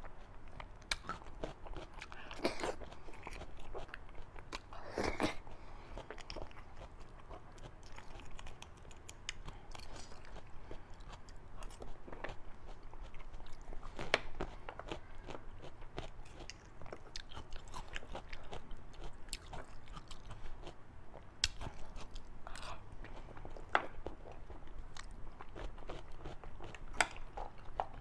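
A person chewing and biting fatty beef and beef bone marrow close to the microphone, with many short, sharp mouth clicks and crunches at irregular intervals.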